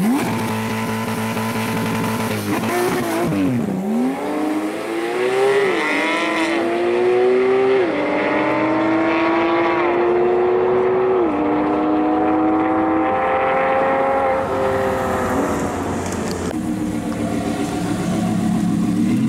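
Porsche 911 GT3 RS's naturally aspirated flat-six revved at the line, then launching and accelerating hard through several quick upshifts, each a rising pitch that drops suddenly at the shift, fading as the car pulls away down the strip. Near the end, after a cut, a different engine idles: the Audi R8 at the start line.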